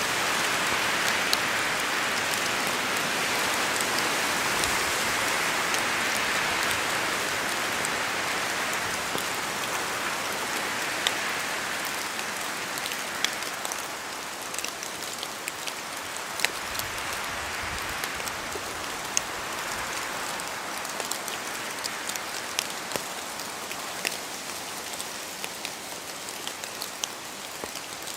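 Steady rain falling in a forest, with single drops landing close by as sharp, scattered ticks. The hiss is fuller for the first ten seconds or so, then eases, leaving the close drops more distinct.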